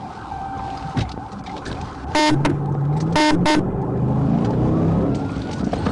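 A vehicle horn honked in four short blasts, two quick pairs about a second apart, over driving road noise. A siren wails faintly in the second half.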